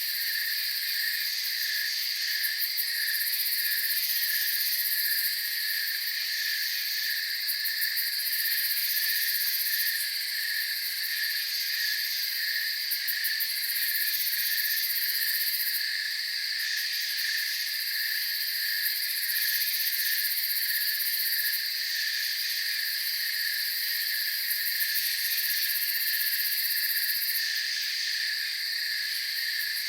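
Night insect chorus of crickets: a steady high chirping with a regular pulsing beat underneath, and a very high trill that switches on and off every few seconds.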